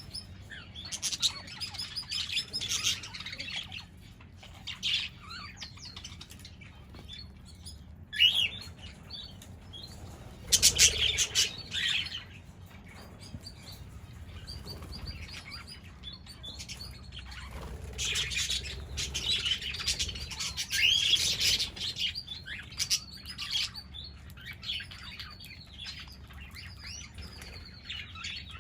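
A flock of parrots chirping and chattering continuously, with a loud burst of wing flapping about ten to twelve seconds in.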